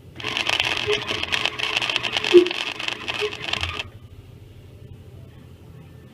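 Flux-core wire welder arc crackling steadily as a bead is laid on a stainless steel patch, for about three and a half seconds, then cutting off suddenly when the trigger is released.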